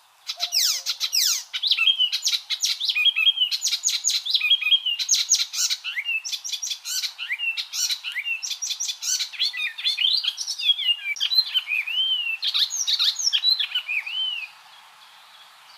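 Icterine warbler singing a fast, varied song of rapid rising and falling whistled sweeps mixed with chattering notes, stopping near the end.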